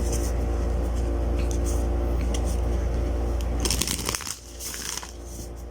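Laminated matte oracle cards being riffle-shuffled, with scattered crisp clicks and a denser flutter of cards just under four seconds in, over a steady background hum that drops away soon after.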